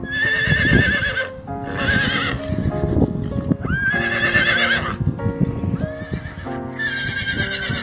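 Horse whinnying about five times, each call high and quivering, over background music.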